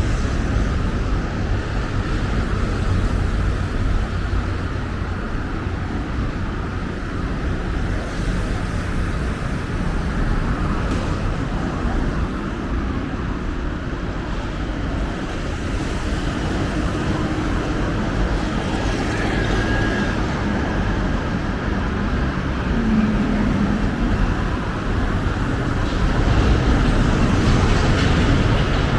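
Steady road traffic on a busy city street: a constant low rumble of passing vehicles.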